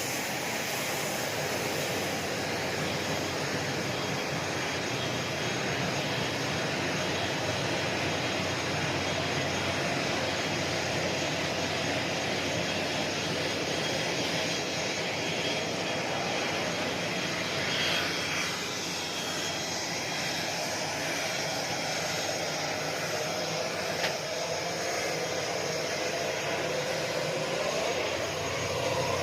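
Steady jet turbine noise with a thin high whine over a rushing hiss, with a single click about two-thirds of the way through.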